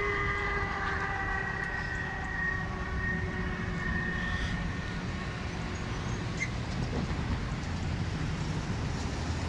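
Freight train rolling through a grade crossing with a steady low rumble, while a chord of held tones, likely the locomotive's horn, sinks slightly in pitch and fades out over the first few seconds.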